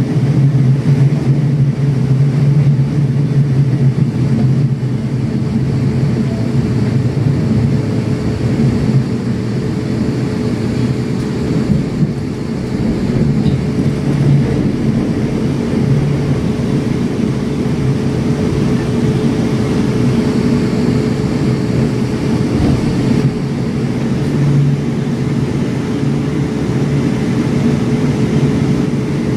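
Cabin noise inside a Class 450 Desiro electric multiple unit running at speed: a steady low rumble of wheels on rail with a constant hum.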